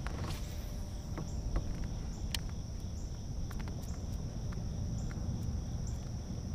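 A steady, high-pitched insect drone like crickets, over a low rumble of wind and water, with scattered light clicks.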